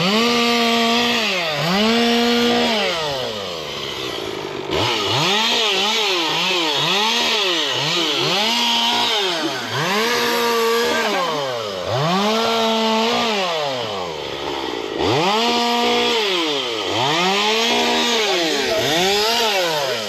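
Two-stroke chainsaw revved up and let back down again and again, about once a second, its pitch climbing, holding briefly and falling each time.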